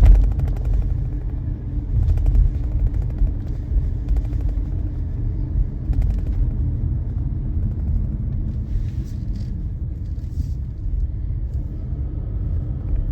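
Steady low road and engine rumble inside a moving car, with a few faint short ticks.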